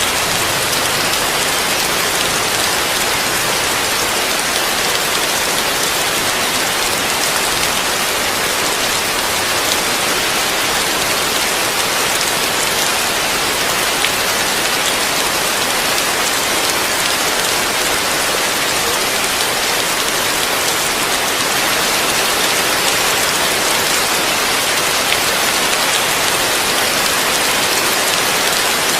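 Heavy rain falling steadily on a roof, an even hiss with faint scattered drop taps.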